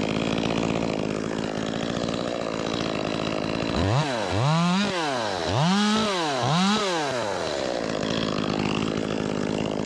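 Ported Echo 25 two-stroke top-handle chainsaw running steadily at idle. About four seconds in, its throttle is opened three times, the engine pitch rising and falling each time, before it drops back to idle.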